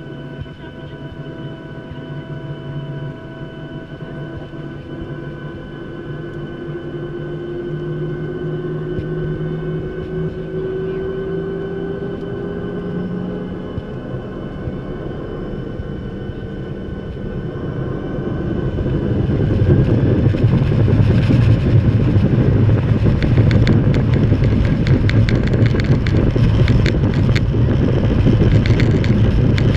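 Boeing 737-800's CFM56-7B jet engines heard from inside the cabin, first running at low power with a steady whine and a tone rising slowly, then about two-thirds of the way in swelling sharply into a loud, dense rumble as thrust builds for the takeoff roll, with rapid rattling and bumping from the runway.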